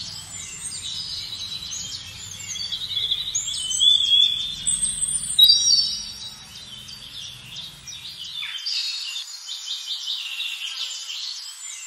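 Small birds chirping and calling: many quick, high chirps throughout, with louder whistled calls about four and five and a half seconds in.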